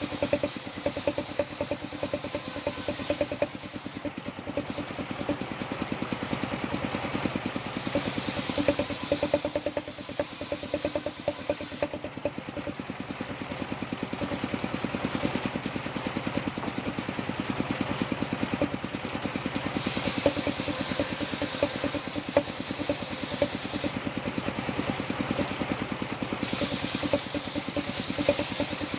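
Engine-driven sawmill running steadily with a fast, even pulse, while a hiss from the saw cutting kenanga wood swells and fades several times.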